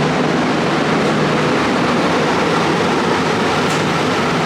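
Narrow-gauge park passenger train carriage rumbling and rattling as it runs along the track, a loud steady noise with a low hum underneath. The train is very rickety.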